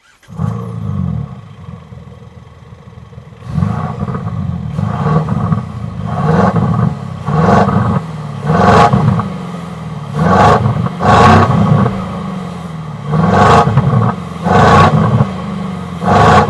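Engine Vox Stage 1+ active sound system on a Mercedes-Benz W213 E-Class diesel: speakers under the rear bumper play a synthetic V8-style exhaust note over the diesel engine. A burst at the start, a couple of seconds of idle, then about eight short revs, each rising and falling.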